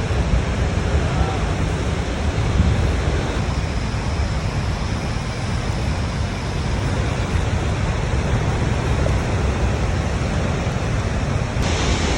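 Steady roar of rushing water from a waterfall, with a brighter hiss coming in near the end.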